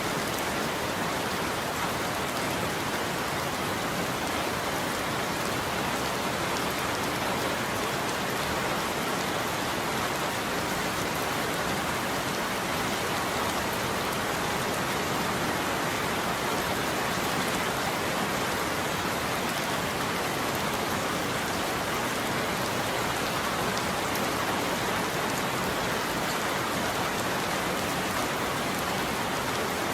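Steady heavy rain falling, an even, unbroken hiss with no thunder.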